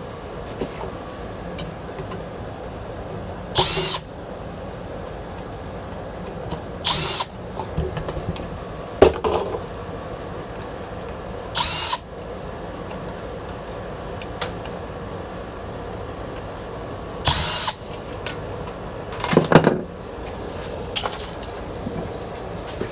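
Cordless drill/driver spinning in four short bursts, backing out the screws that hold a ceiling fan's blades and blade irons, with metal parts clinking and clattering between the bursts.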